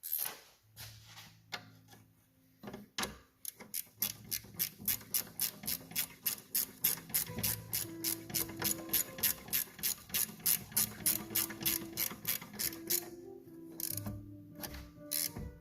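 Hand ratchet wrench being worked, its pawl clicking in a quick even run of about four clicks a second.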